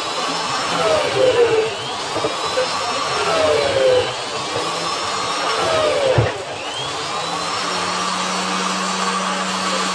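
Electric power tool running under load, its pitch dipping and recovering about every two seconds.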